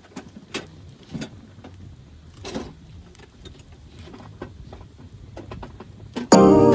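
A few scattered knocks and rustles, as of gear being handled, over faint background noise; near the end, loud electronic background music starts suddenly.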